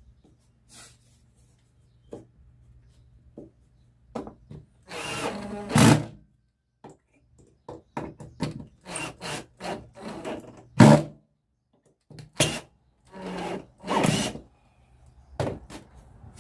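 Wooden table pieces being fitted to a homemade bench grinder: scattered knocks and clicks of tools and wood, with a few short noisy bursts, about five and thirteen seconds in.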